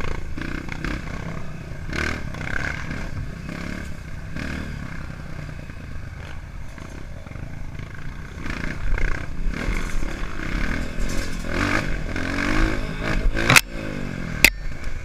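Enduro trail motorcycle engine revving in uneven bursts, with clattering and two sharp clicks near the end.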